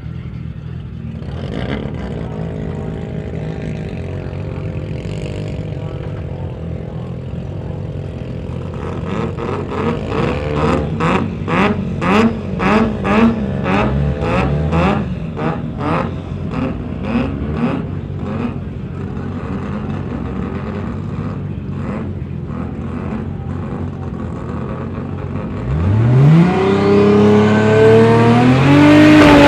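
Turbocharged Toyota 1JZ straight-six in a drag ute idling on the start line, revved in a run of quick blips about two a second, then settling back to idle. About 26 seconds in it launches: the engine pitch climbs steeply and loudly under full throttle as the ute accelerates away down the strip.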